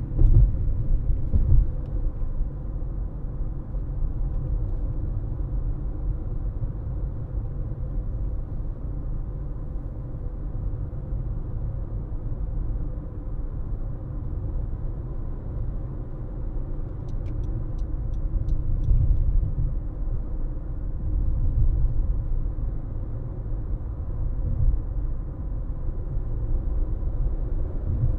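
Car driving on a road: a steady low rumble of engine and tyre noise. About two-thirds of the way through comes a brief run of light ticks.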